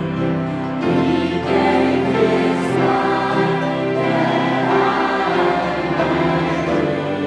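A group of voices singing a hymn together in held notes, with musical accompaniment.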